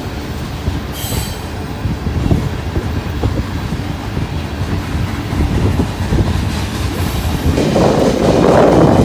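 Freight train running along the track, a steady low rumble with irregular knocks and a brief high wheel squeal about a second in. A gust of wind buffets the microphone near the end.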